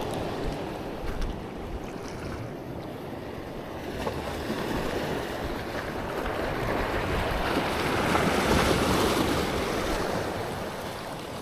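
Waves washing in on the shore, a steady rush that swells to its loudest about two-thirds of the way through and then eases, with wind buffeting the microphone.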